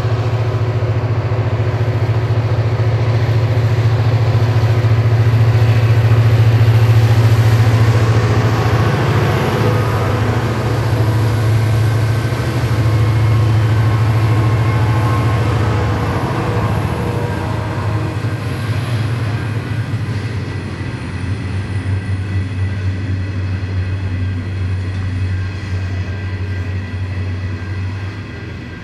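A diesel train passing close by, its engine drone loudest about six or seven seconds in and fading after about sixteen seconds, followed by the wheels clicking over the rails as the rest of the train rolls past.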